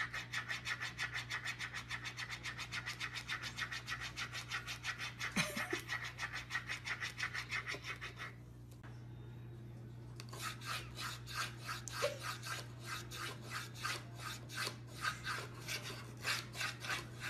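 Rhythmic rasping, scraping strokes, about five a second, in two long runs with a short pause between them, over a steady low hum.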